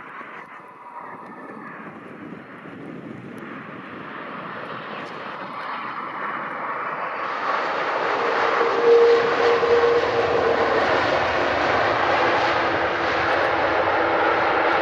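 Airliner's engines drawing near: a rushing noise that grows steadily louder over the first half, then holds loud. About halfway in, a steady whine-like tone joins it.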